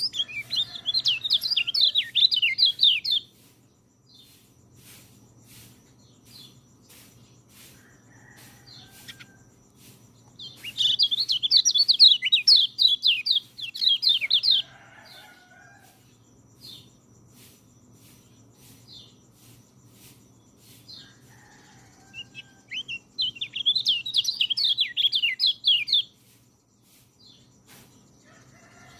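Peleci songbird singing three bursts of rapid, high chattering notes, each a few seconds long, with faint chirps in the pauses between them.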